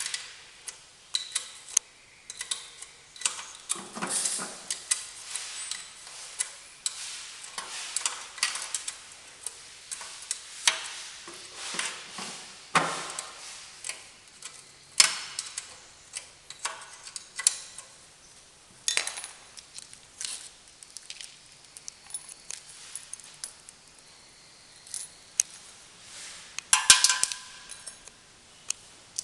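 Irregular metallic clinks and clanks of hand tools and engine parts knocking together as an engine is taken apart and put back together.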